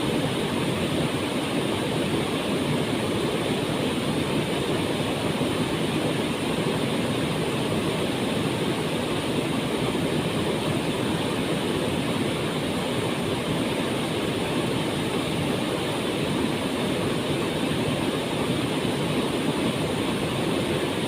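We'e Kacura waterfall in Sumba: falling water rushing with a steady, even roar that neither swells nor breaks.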